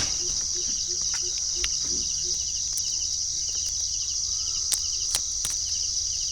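Night insect chorus of crickets: a steady high-pitched trill, with a lower pulsing call repeating about three times a second for the first couple of seconds and a few sharp clicks.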